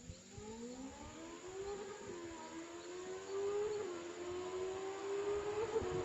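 Benelli TNT 600 inline-four with an SC Project exhaust approaching, faint at first and growing steadily louder. Its engine note climbs, dipping briefly twice along the way.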